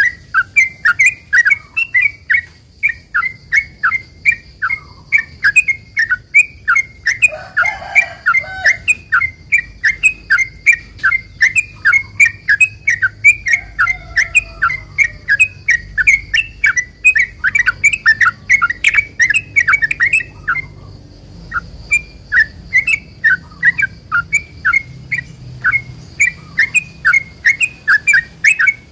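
Yellow-vented bulbul (trucukan) singing a long unbroken series of sharp chirps, about three a second, the long 'ropel' song used to lure other bulbuls into answering; it pauses briefly about twenty seconds in, then carries on.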